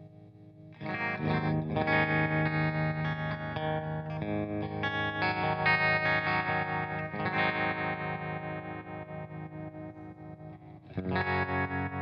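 Electric guitar played through a 1965 Fender Tremolux AB763 tube amp, ringing chords with a slight overdrive. A loud chord comes in about a second in and slowly fades, then another is struck near the end, with the volume pulsing evenly throughout.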